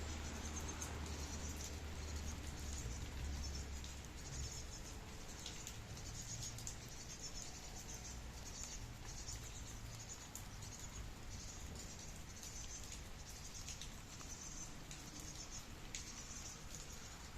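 Rain falling steadily with scattered drip ticks, under a high chirring that swells and fades in patches. A low rumble fades out in the first few seconds.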